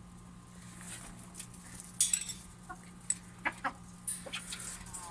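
Hens clucking and pecking as they compete for food, with short sharp pecks and calls and a loud sudden burst about two seconds in.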